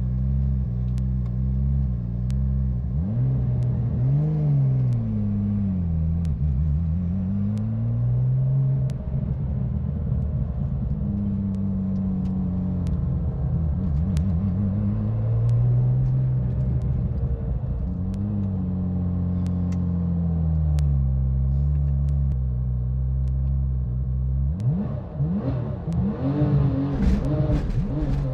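Car engine running at low revs, its pitch rising and falling slowly every few seconds, with a few quicker revs near the end.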